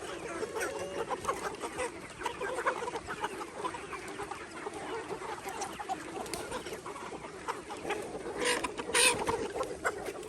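A flock of laying hens clucking over one another. Two louder, sharper calls stand out about eight and nine seconds in.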